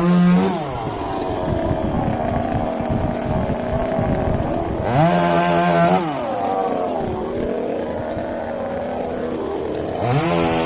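Two-stroke chainsaw running at a lower speed and revved up briefly three times, its pitch climbing sharply, holding high for about a second, then dropping back.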